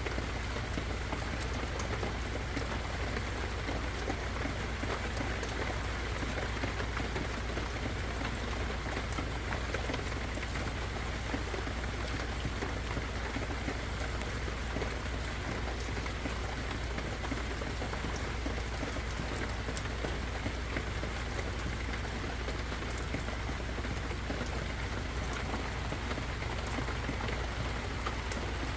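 Steady rain falling in a redwood forest, an even hiss with scattered individual drops ticking through it.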